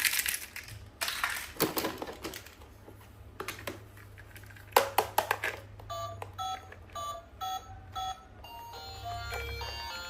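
Crinkling and clicking as plastic toy packaging is handled. From about six seconds in, an electronic toy gives a run of short, evenly spaced beeps, then starts a simple electronic tune near the end.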